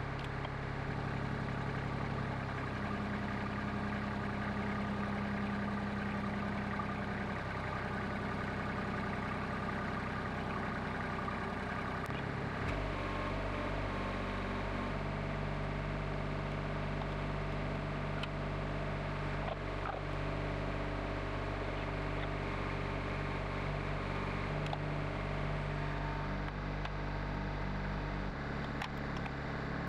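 An engine running steadily, its pitch shifting in steps about 12 and 28 seconds in.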